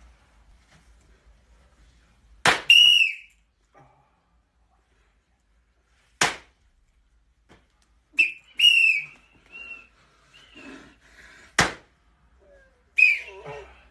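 Sharp hand slaps, four smacks spaced a few seconds apart, with short high whistle-like squeals after some of them.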